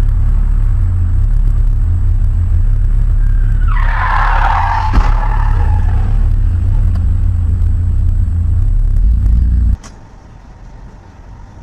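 Heavy low rumble of a car driving, as picked up by a dashcam, with a tyre screech about four seconds in lasting around two seconds and one sharp knock in the middle of it. The rumble cuts off abruptly near the end.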